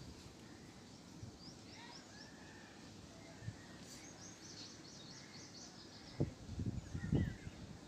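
Bird chirping in the background: a few short high chirps, then a quick run of about ten near the middle, over a faint steady background noise. Near the end come a few low, muffled knocks and rustles close to the microphone.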